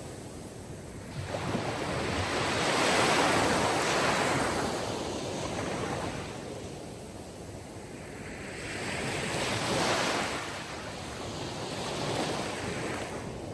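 Sea surf: waves washing in and drawing back, the hiss rising and falling in slow swells, loudest about three seconds in and again about ten seconds in, with a smaller swell near the end.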